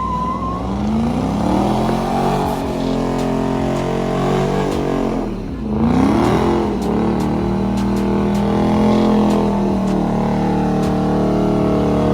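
A car engine revving: its pitch climbs over the first couple of seconds, drops sharply about five seconds in, climbs again, then holds steady at raised revs.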